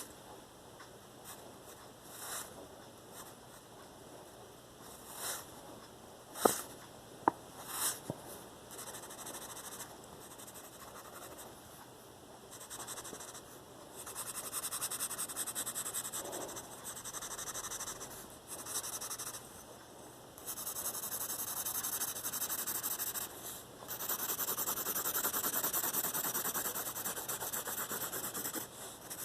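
Pencil scratching on paper: scattered short strokes and a couple of sharp taps in the first half, then long stretches of rapid back-and-forth shading strokes.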